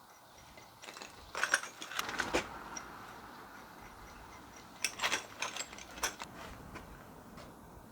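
Two short spells of small metallic clicking and clattering, the first about a second in and the second about five seconds in, like metal parts or hand tools being handled.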